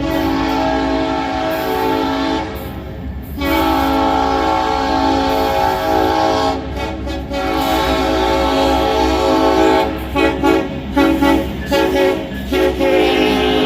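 Air horn of a KCSM-CPKC EMD SD70ACe diesel locomotive sounding with a hoarse tone: two long blasts, a stretch of steadier blowing, then several short blasts and a final long one, over the low rumble of the passing freight train.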